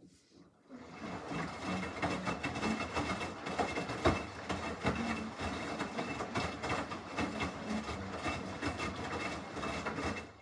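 Samsung washing machine mid-wash, its drum turning a load of clothes and water in one long stretch, a steady churning with many small knocks. It starts suddenly about half a second in and stops abruptly near the end, when the drum pauses.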